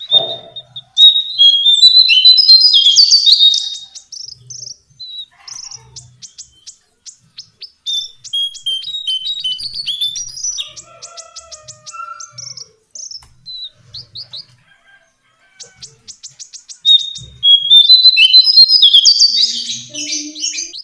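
Lesser shortwing singing: a loud, jumbled, high warbling phrase about a second in and again near the end, with rapid runs of dry ticking notes and scattered short calls between.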